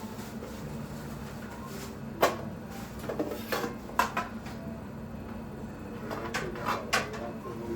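Scattered clinks and knocks of dishes and utensils being handled, about eight separate hits starting a couple of seconds in, over a steady low hum.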